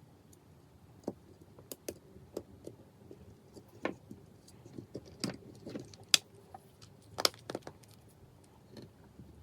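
Irregular clicks and taps of small hard tools and phone parts being handled and set down, with the two sharpest taps a little after six seconds and just past seven seconds.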